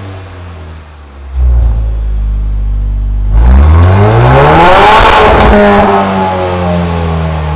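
Mercedes-Benz CLA45 AMG's turbocharged four-cylinder through an iPE aftermarket exhaust, running at a low steady note that gets suddenly louder about a second in. It is then revved once, the pitch rising fast to a peak and falling back to the steady note.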